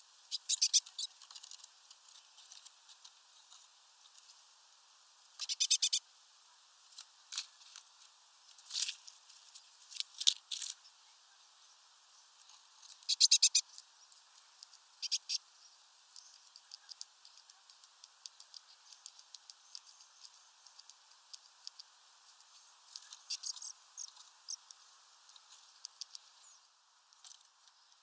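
Small birds at a feeder: scattered sharp taps and a few short runs of rapid ticking, the loudest about five seconds in and again about thirteen seconds in, over a faint steady hiss.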